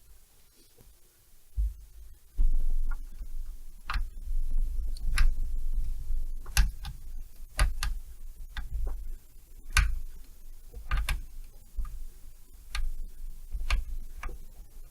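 Irregular sharp clicks and knocks of hand tools and metal parts being handled while a chainsaw is taken apart, over a low rumble of handling noise.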